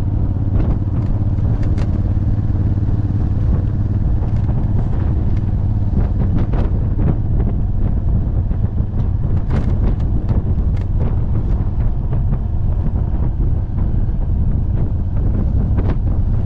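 Honda Africa Twin's twin-cylinder engine running steadily while cruising, heard from a camera on the rear top box, with wind rushing over the microphone and occasional short ticks.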